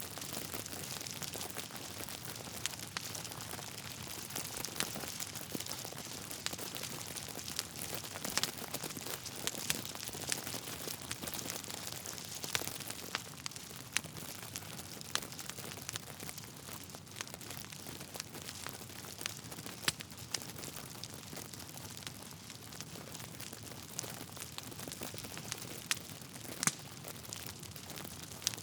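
Wood fire in a fireplace crackling steadily, with frequent irregular snaps and a few louder pops from the burning logs.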